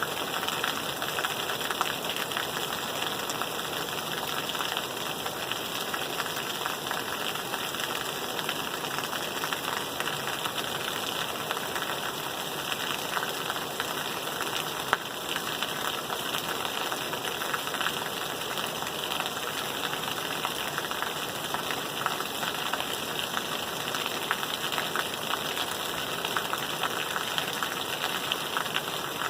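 Steady rain falling, an even dense hiss of countless drops with no letup, and one sharp tick about halfway.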